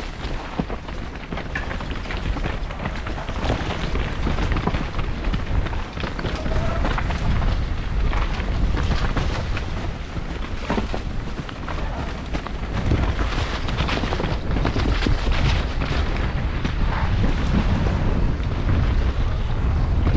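Wind rushing over the microphone on a fast mountain bike descent, with the tyres rolling over dirt and the bike clattering over bumps in many short knocks.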